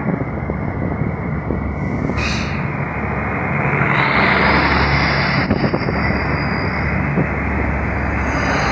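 Diesel shunting locomotive running with a steady low rumble as it moves the empty tank wagons. There is a short hiss of air about two seconds in, and a few knocks in the second half.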